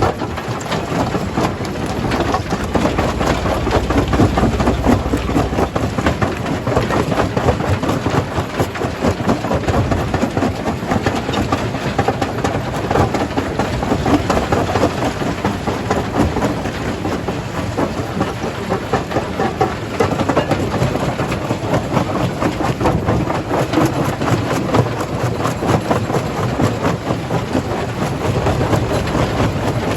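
Primary jaw crusher running and crushing stone: a continuous dense clatter of rock knocking and cracking over a steady heavy machine rumble.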